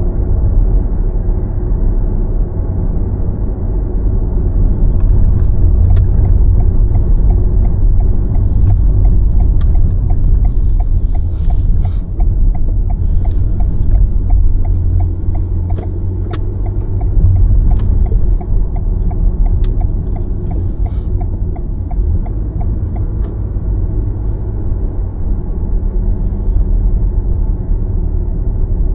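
Car driving on a city road: a steady low rumble of tyres and running gear, with faint regular ticking through the middle stretch.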